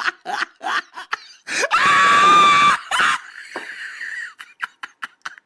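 Short rhythmic bursts of snickering laughter, then a loud high-pitched scream lasting about a second, followed by a fainter trailing voice.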